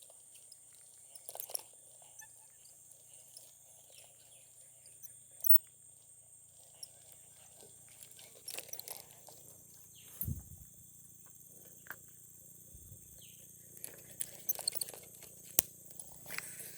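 Insects chirring steadily at a high pitch, with scattered sharp clicks and a couple of low thumps, the loudest clicks near the end.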